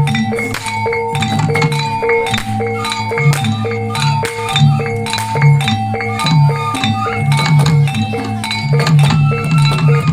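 Live Reog accompaniment of Javanese percussion: tuned gongs ring a short repeating pattern of notes over steady drum beats and sharp clattering strikes.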